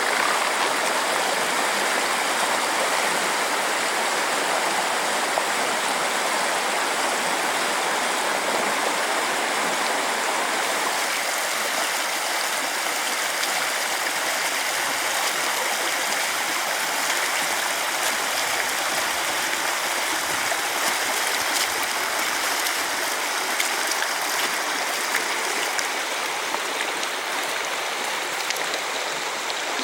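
Steady rush of water at a small waterfall on a mountain stream, pouring and splashing continuously.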